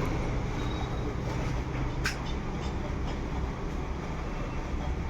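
Maruti Suzuki Eeco petrol engine idling with a steady low rumble, running rough from a misfire that the check-engine fault code puts down to a faulty MAP (manifold absolute pressure) sensor. A brief high chirp sounds about two seconds in.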